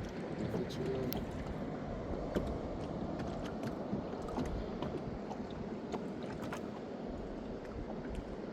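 Water moving against a small fishing boat, a steady low wash with scattered light clicks and knocks.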